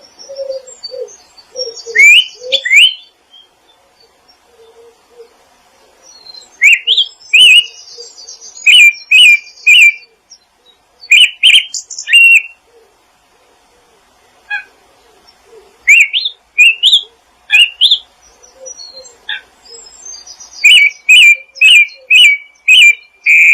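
Songbirds calling: loud, sharp rising chirps in quick clusters, with bouts of high scratchy chatter and soft low repeated notes underneath at the start and near the end.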